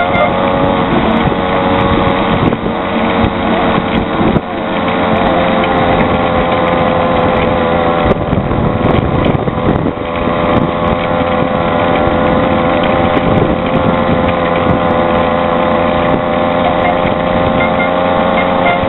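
Small engine of a motorized bicycle running steadily under way, a loud, even drone that holds nearly the same pitch throughout.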